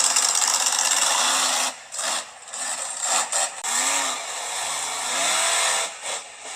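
Monster truck engine revving hard, its pitch rising and falling several times as the throttle is worked, with loud exhaust noise and a few brief drops in level.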